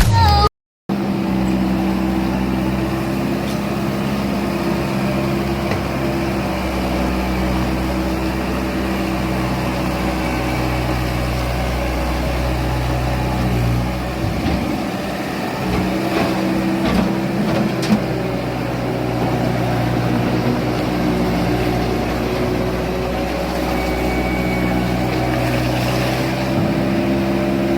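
Diesel engine of a piece of earthmoving machinery running steadily, its note shifting under changing load around the middle, with one sharp knock later on.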